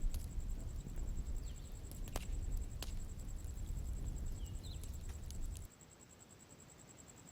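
Outdoor bonfire crackling, with a few sharp pops over a low rumble, while a steady high insect trill, typical of crickets, runs underneath and two faint bird chirps come through. The low rumble stops abruptly about two-thirds of the way through, leaving the quieter trill.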